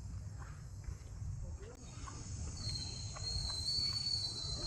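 Insects buzzing in steady high-pitched drones, growing louder about two seconds in, with a single piercing whine joining just after. A low rumble runs underneath.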